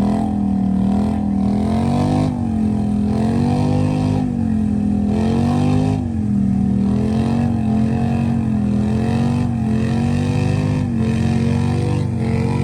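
Off-road vehicle engine running under changing throttle, its pitch rising and falling over and over, every second or so.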